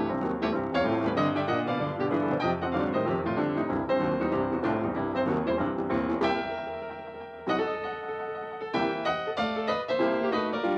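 Background piano music: quick runs of struck notes, easing into held, fading chords about six seconds in before the playing picks up again.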